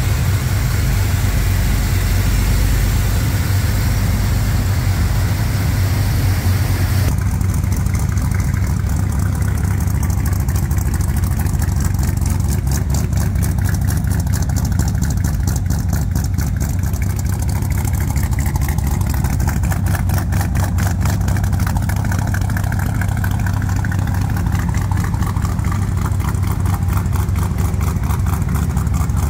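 Built 283 cubic inch small-block Chevy V8 with a lopey cam, idling steadily through 2.5-inch dual exhausts fed by block-hugger headers. About seven seconds in, the sound moves from under the hood to the tailpipes, where the even exhaust pulses come through plainly.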